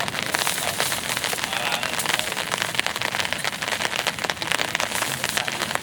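Heavy rain falling steadily, a dense stream of close drop impacts on a hard surface.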